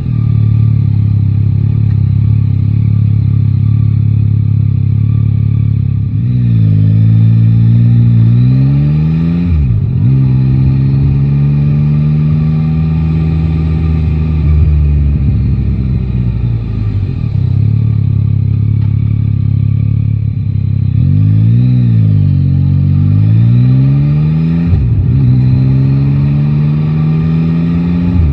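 Yamaha Tracer 9 GT's three-cylinder engine running under the rider. It holds a steady speed, then twice revs up with rising pitch and drops sharply at a gear change, about ten seconds in and again a few seconds before the end.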